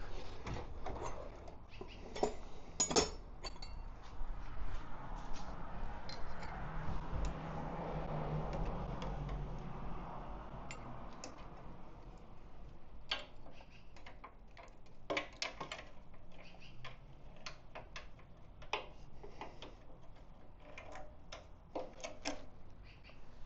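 Irregular clicks and clinks of metal hand tools working on the motorcycle's fasteners and parts, with a soft rustling noise for several seconds in the middle.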